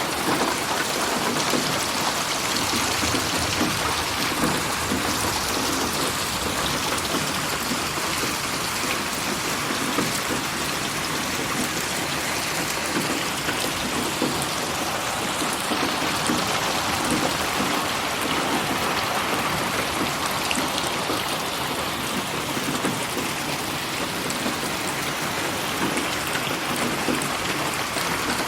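Steady rain falling, an even hiss of many drops, processed as 8D audio so that it slowly sweeps around the listener.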